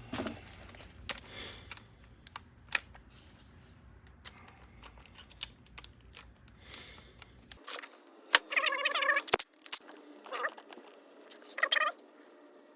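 Scattered light metallic clicks and clinks of hand tools working on a small engine, with short squeaks about eight and a half seconds in and again near the end.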